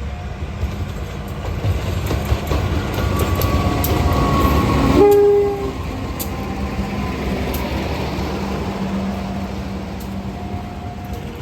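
A train approaching and passing close by. Its rumble builds to a peak about five seconds in, where a short horn blast sounds, then carries on at a steady lower level as the cars run past.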